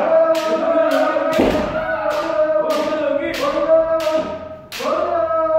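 Kendo practice: several voices holding long kiai shouts, one breaking off and a new one starting near the end, over a steady run of sharp strikes about twice a second from shinai hitting armour and stamping footwork.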